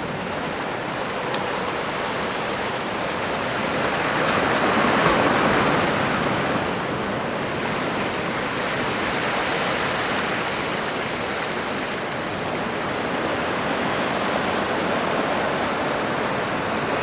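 Heavy typhoon-swell surf breaking and washing ashore: a steady rush of water that swells about four seconds in and again at the end.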